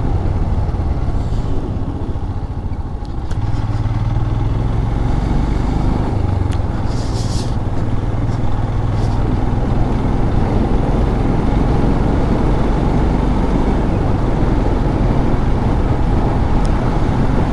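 Motorcycle engine running at a steady road speed, a low steady hum under heavy wind rush on the microphone. The level dips briefly about three seconds in.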